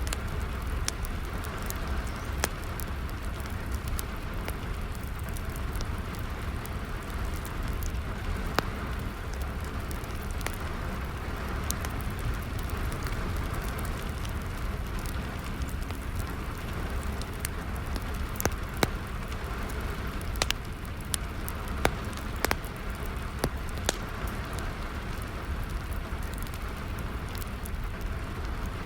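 Steady rainfall with a wood fire crackling, its sharp pops scattered through the hiss and coming more often about two-thirds of the way in.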